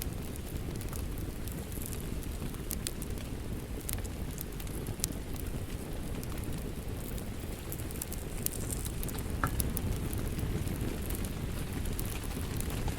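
Wood fire crackling in a fireplace: a steady low rumble of flames with scattered sharp pops and crackles.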